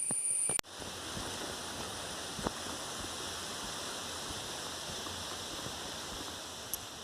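Steady rushing of flowing water, an even hiss with no pitch, with one faint knock about two and a half seconds in.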